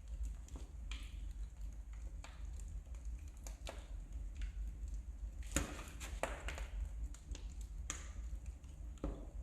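Wood fire crackling in a fireplace: irregular sharp pops and snaps over a low steady rumble, the loudest pop a little past halfway.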